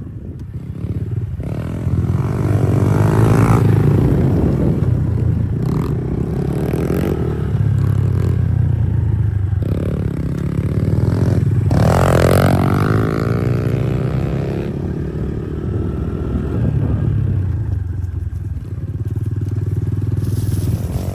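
Pit bike engine being ridden, its pitch rising and falling with the throttle, with a sharp rev about twelve seconds in.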